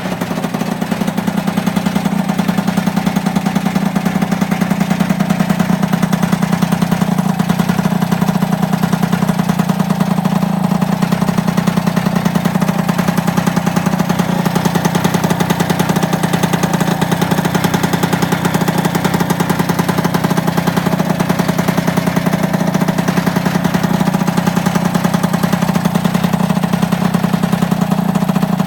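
The two-stroke single-cylinder engine of an MBK 51 moped runs steadily with a fast, even pulsing beat. Its top end is running for the first time after 28 years in storage.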